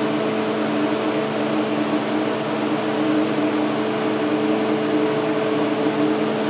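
Paint exhaust fan running steadily: an even rush of air with a constant motor hum.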